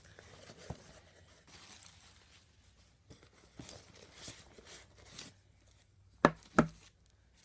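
Items being taken out of a box: scattered faint rustling and light knocks of packaging being handled, then two sharp knocks close together about six seconds in, the loudest sounds.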